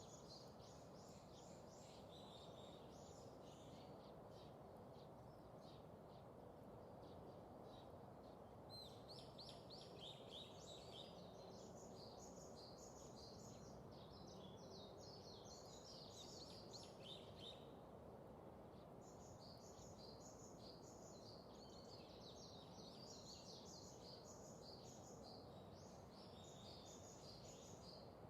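Faint birds twittering in rapid chirping runs over a low steady background hiss. The chirping comes in several spells and pauses briefly about a third of the way in and again near two-thirds.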